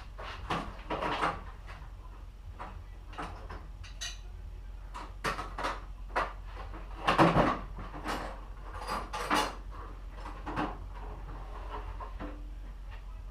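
Irregular knocks and clanks of hard objects being handled and set down, with a loud clatter about seven seconds in, over a steady low hum.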